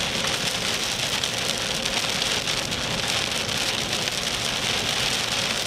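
Rain pelting a moving car's body and windshield, a dense steady patter over the hum of the car on the road.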